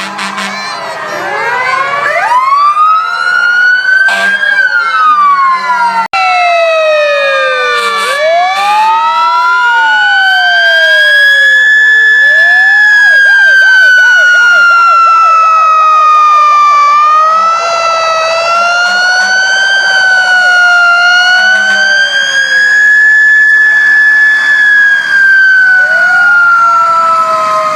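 Several emergency-vehicle sirens sounding at once. The loudest is a fire-truck siren that winds slowly up and down. Faster wails run under it, and a quick yelp comes in around the middle.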